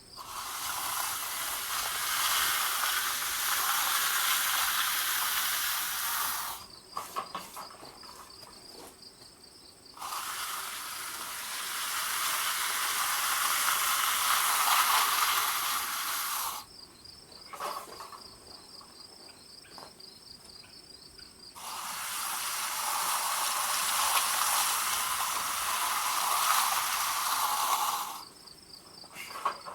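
Three long spells of steady spraying hiss, each about six seconds, separated by short pauses in which crickets chirp.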